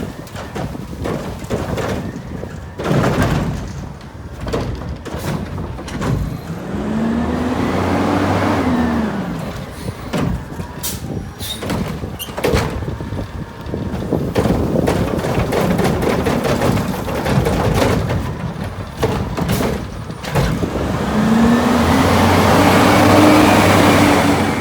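Garbage truck with a Curotto-Can automated cart arm at work: the engine revs up twice with a rising, then falling hydraulic whine, once about a third of the way in and again near the end. Repeated bangs and clatter of the cart and its load run throughout.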